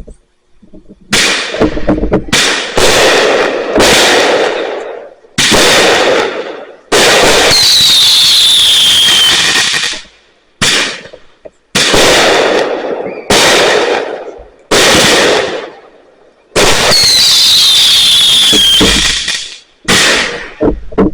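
Fireworks going off in quick succession: about a dozen sharp, very loud bangs that overload the microphone, each fading away over a second or two. Twice, a longer blast carries a falling whistle.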